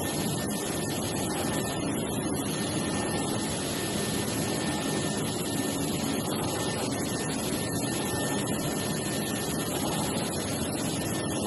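Steady, even mechanical noise of running machinery, with a faint high whine.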